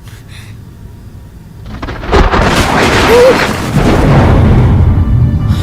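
Thunder: a low rumble, then a loud thunderclap about two seconds in that keeps rumbling afterwards.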